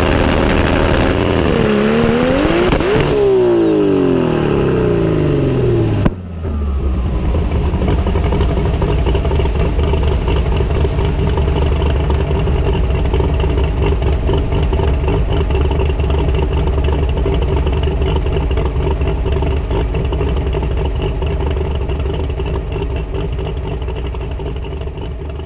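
Turbocharged straight-six of an Opala drag car being revved hard, its pitch swinging up and down. It cuts off abruptly about six seconds in, and a steady idle with a deep rumble follows and fades out near the end.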